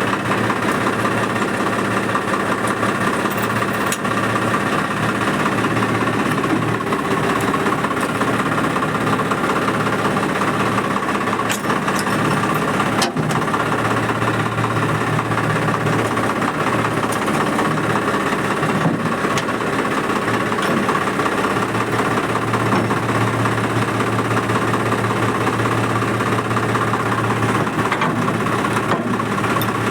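Swaraj 855 tractor's diesel engine idling steadily.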